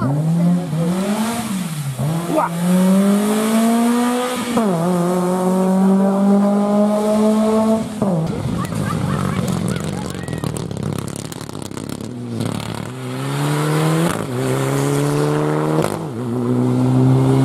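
Rally car engine accelerating hard through the gears, the pitch climbing and dropping at each upshift, then held flat out. About halfway through comes a noisy stretch with sharp cracks, then the engine pulls up through the gears again.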